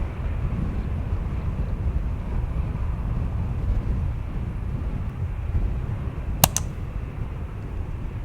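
Wind rumbling on the microphone in open air, with two sharp clicks in quick succession about two-thirds of the way through.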